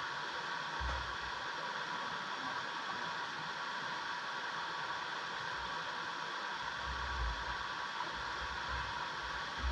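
Steady hiss of rushing stream water, with a few low thuds, the longest near the end.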